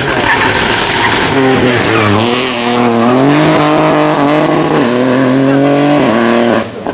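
Rally car engine run hard, its pitch dipping about two seconds in and climbing again, then falling steeply as the revs drop off near the end.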